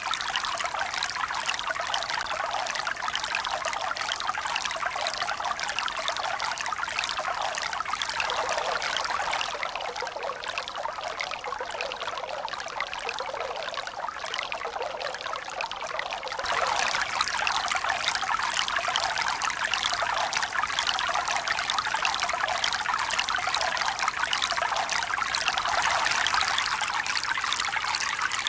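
Steady splashing and trickling of running water, with no surge of waves. It goes softer and duller for several seconds through the middle, then comes back louder.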